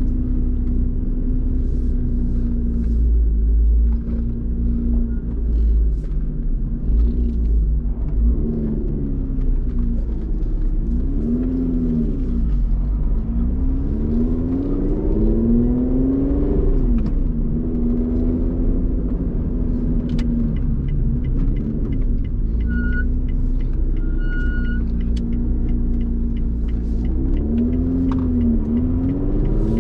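Lotus Evora GT's supercharged 3.5-litre V6 with a titanium exhaust, driven on the street: the revs climb and drop again and again as it pulls through the gears, over a steady low rumble. Two short beeps sound a little past the middle.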